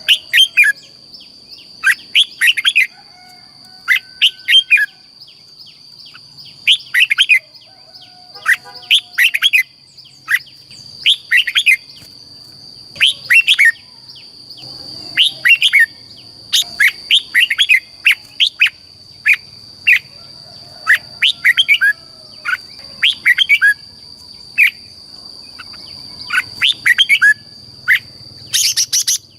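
Red-whiskered bulbul singing: short bright whistled phrases, repeated every second or two. A steady high-pitched tone runs underneath.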